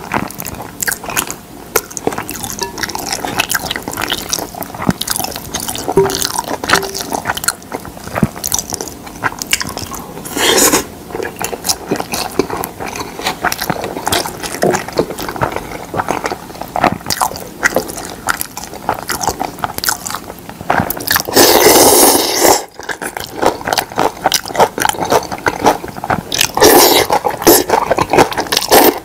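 Close-miked chewing and wet mouth clicks of someone eating mixed rice, with a few short, loud slurps, the last near the end as food in dark sauce is sucked off chopsticks.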